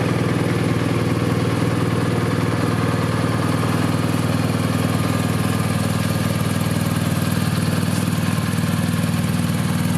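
BMW R1250 RT's 1254 cc air/liquid-cooled boxer twin idling steadily, with an even, unchanging engine note.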